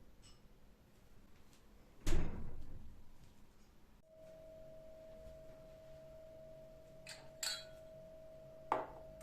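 A single loud knock with a short ringing decay, like a household object set down hard. About four seconds in, a steady even hum from an appliance starts, with a few light clinks of dishes or glass near the end.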